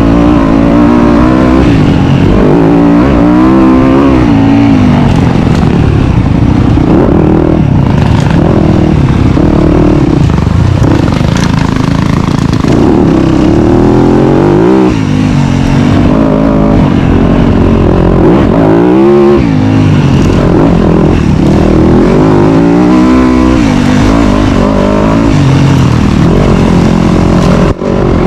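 Dirt bike engine being ridden hard, revving up and down, its pitch climbing and dropping every few seconds.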